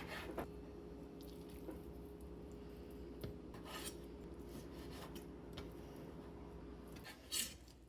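A kitchen knife cutting raw boneless chicken thigh on a cutting board, faintly: scattered soft taps and scrapes, one a little louder near the end, over a steady low hum.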